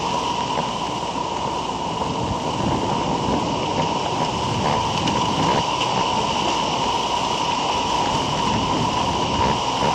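Steady rushing background noise with a constant high whine, as picked up by an outdoor nest-camera microphone; no distinct calls stand out.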